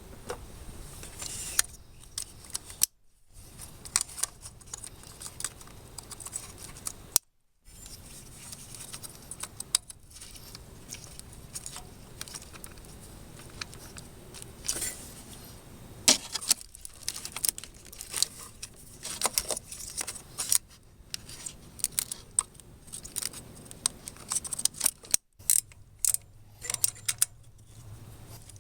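Metallic clinks and clicks of hand tools and engine parts being handled, coming in quick irregular runs, with a few brief cuts to silence.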